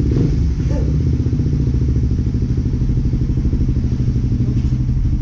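Suzuki Raider 150 Fi motorcycle's single-cylinder four-stroke engine idling steadily, with a fast even pulsing and no revving.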